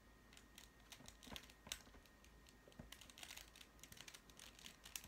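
Faint, irregular plastic clicking of a Master Morphix twisty puzzle being turned by hand.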